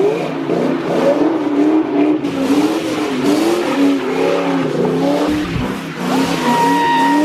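New Edge Ford Mustang engine run hard, its pitch rising and falling about once a second as the throttle is worked up and down. A steady high whine joins in about six seconds in.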